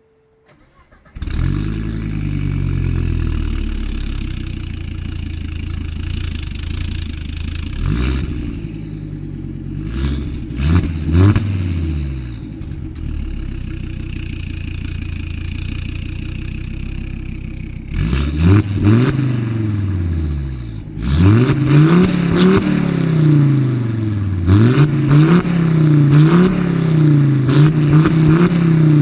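Volvo V70R's turbocharged inline-five firing up about a second in through a catless, near-stock exhaust, settling to idle, then revved with quick throttle blips. In the last third the revs come again and again, about every second and a half.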